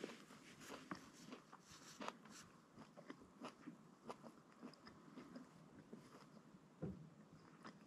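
A person chewing a mouthful of blacktail venison with fried onion and jalapeno: faint, irregular small clicks of the mouth, one louder near the end.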